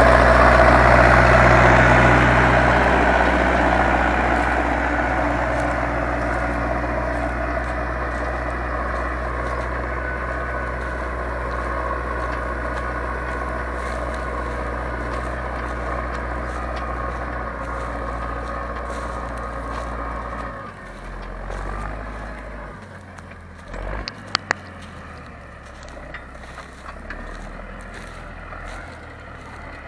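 Zetor 7245 tractor's four-cylinder diesel engine running steadily while ploughing, loud at first and slowly fading as it pulls away. About 20 s in its note drops and turns quieter, and a couple of sharp clicks come a few seconds later.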